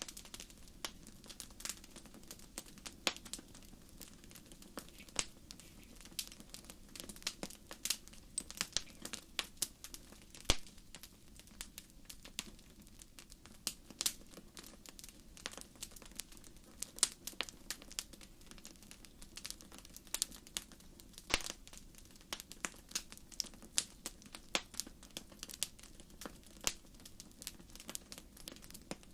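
Fireplace fire crackling: irregular sharp pops and snaps, a few of them much louder, over a steady low background.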